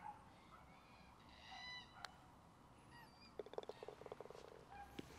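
Faint bird calls: a few short whistled calls, then a quick rattling series of notes that speeds up near the end, with a single sharp click about two seconds in.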